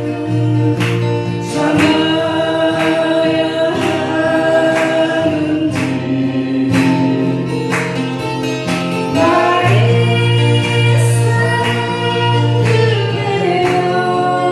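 A group singing a song together to strummed acoustic guitars, the strums falling about once a second under the melody.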